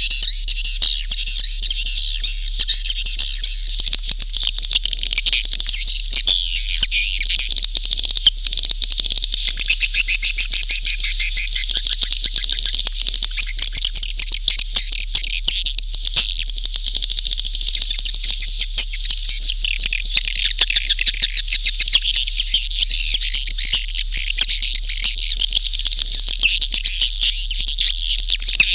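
Swiftlet call recording of the kind played to lure swiftlets into nesting houses: a dense, continuous chorus of rapid high chirps and twitters.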